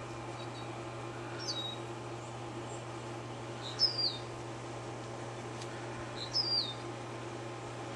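A small bird calling three times, roughly two and a half seconds apart, each a short chirp falling in pitch. The middle chirp is the loudest. A steady low hum runs underneath.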